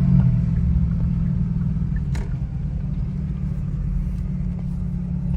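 Car engine and road rumble droning steadily inside the cabin while driving, with one brief click about two seconds in.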